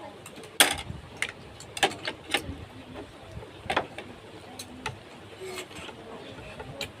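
Irregular sharp clicks and knocks, about a dozen, the loudest about half a second in.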